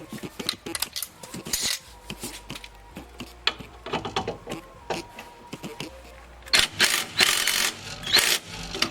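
Hand ratchet clicking in short runs as the ball joint pinch bolt's nut is run down, with scattered clinks of tools on metal.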